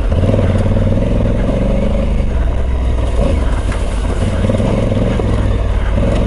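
Honda CRF1100L Africa Twin's parallel-twin engine pulling hard up a loose gravel track. The revs rise and fall as the rear tyre spins on the stones.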